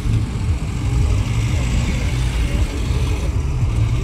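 Car engine running, a steady low drone.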